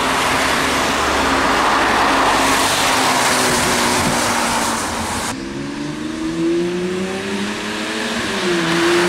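A supercar's engine under hard acceleration on a wet road, its note held fairly steady under loud rushing noise. About five seconds in it cuts to another run where the note climbs, dips at an upshift near the end, then climbs again.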